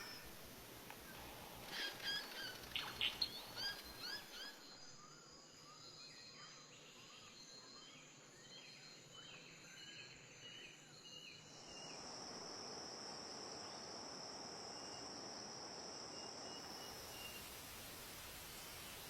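Birds chirping: a quick run of short, curved chirps, loudest in the first few seconds and thinning out. About twelve seconds in this gives way to a steady hiss with an even, high whine.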